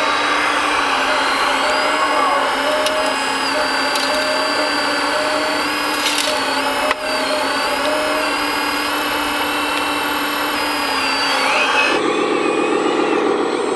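Electric hydraulic pump of a radio-controlled construction model whining steadily, its pitch shifting slightly as the hydraulics take load, with a single click about halfway. About 12 s in it gives way abruptly to a lower, pulsing engine-like sound.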